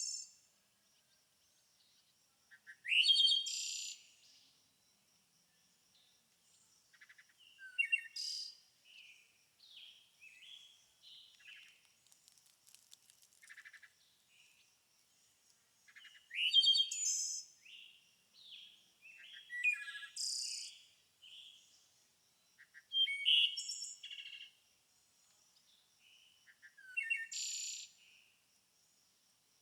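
Songbird singing: short, varied warbling phrases with quick rising and falling notes, repeated every three to four seconds with short pauses between. A faint, steady high-pitched tone runs underneath.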